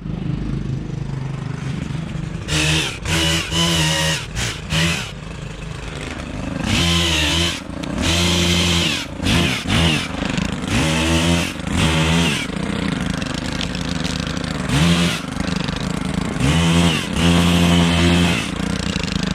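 Stihl KM 131R kombi engine driving its pole pruner chainsaw head, revving up and falling back again and again as the throttle is squeezed and released while cutting branches.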